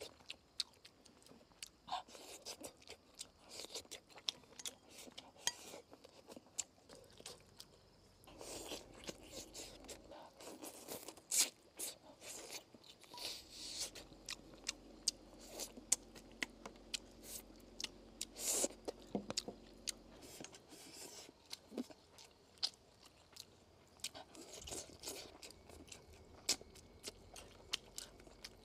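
A person chewing and biting food, eating braised lamb and radish, with many short, irregular clicks of the mouth and teeth.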